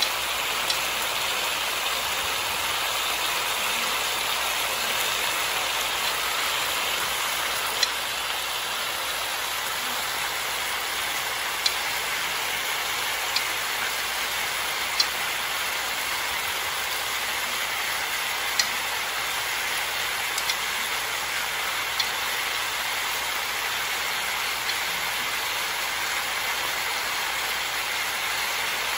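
Sliced potatoes, carrots, onions and chicken frying in oil in a wok: a steady sizzle with a sharp pop every few seconds.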